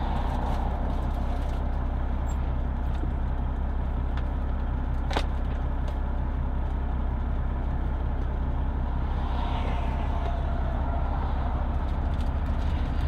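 Heavy truck's Detroit Series 60 diesel engine idling steadily, heard from inside the cab as a low drone, with one sharp click about five seconds in.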